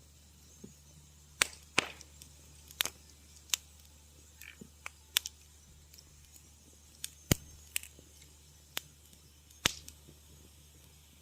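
Wood fire crackling in a fireplace: sharp pops and snaps at irregular intervals, several a few seconds apart and louder than the rest, over a faint low hum.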